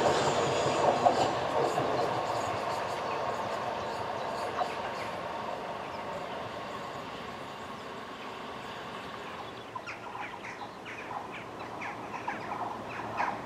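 Southeastern Class 375 electric multiple unit running away along the line, its rushing wheel and running noise fading steadily over several seconds. From about ten seconds in, a scatter of short sharp ticks over a quieter background.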